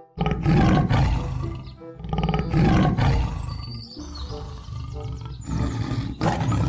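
Lions roaring: several loud roars one after another, about two seconds apart.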